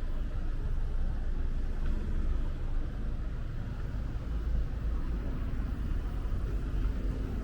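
Steady low rumble of outdoor city street ambience, with no single distinct event.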